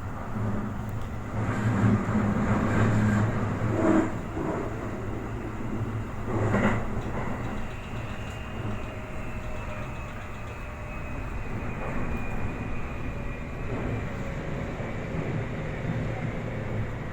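Toei 5500-series commuter train running, heard inside the car: a steady rumble of wheels on rail, with two louder knocks about four and six and a half seconds in. From about eight seconds a thin whine comes in and slowly falls in pitch.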